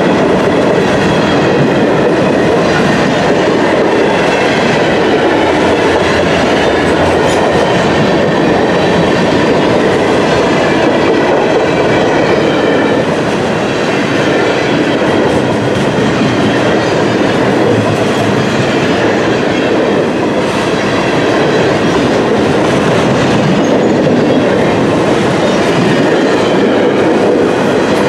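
Freight cars of a passing train, mostly empty flatcars, rolling by close to the track: a steady, loud rolling noise of steel wheels on the rails.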